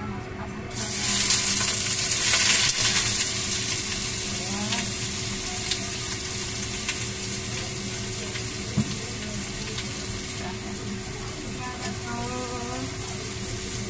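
Shrimp hitting hot oil in a wok: a sudden loud sizzle about a second in that settles to steady frying. A spatula stirs them near the end, with a single click in the middle.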